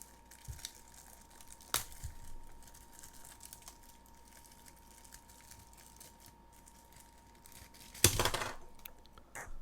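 Small toys and plastic packaging being handled: a few faint clicks, then a short burst of plastic crinkling about eight seconds in.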